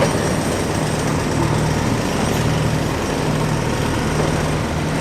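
Engine of an earthmoving machine running steadily with a constant low hum.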